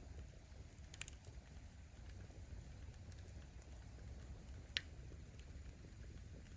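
Wood fire burning with a low steady rumble of the flames and sparse crackles, with two sharp pops as the firewood snaps, the louder one near the end.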